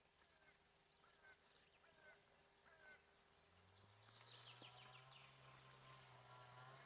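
Faint outdoor country ambience: birds giving short repeated chirping calls, with a low steady hum setting in about halfway.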